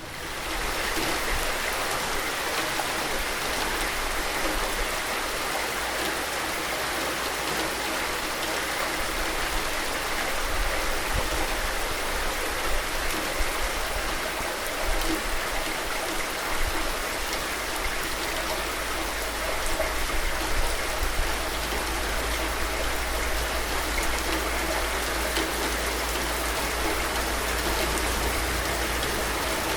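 Steady rain falling: an even hiss with faint patters and a low rumble underneath.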